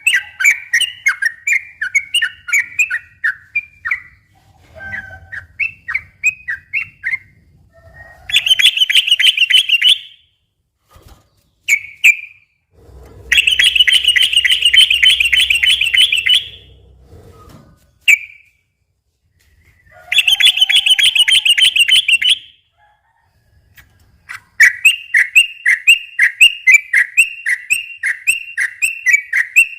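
Yellow-vented bulbul singing: fast runs of repeated whistled notes broken by several dense rolling trills, the quick chattering "ropel" that keepers play to get other bulbuls singing.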